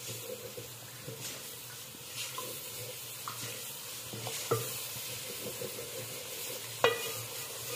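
Onion, tomato and yogurt masala sizzling as it fries in an aluminium pot, with a ladle stirring and scraping through it. This is the bhuna stage, the yogurt being fried into the masala. Two sharp knocks sound, one about halfway through and one near the end.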